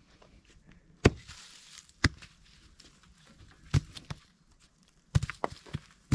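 A series of sharp knocks and thuds at irregular intervals, about seven in all, with faint rustling between them.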